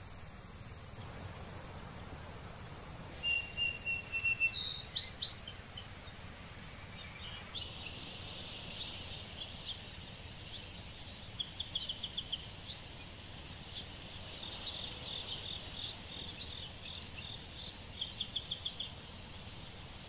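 Songbirds singing: repeated high chirps and short rapid trills in several bursts, over a steady faint hiss.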